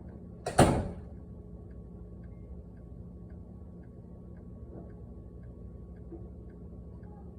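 A door shut with one loud thud about half a second in. After it, a steady low hum with faint ticks about twice a second.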